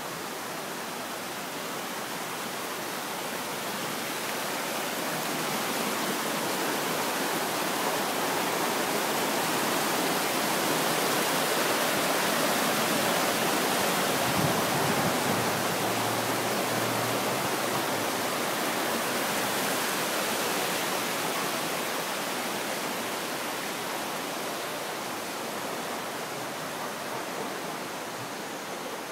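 Floodwater rushing in a swollen stream, a steady roar of water that grows louder toward the middle and eases off near the end.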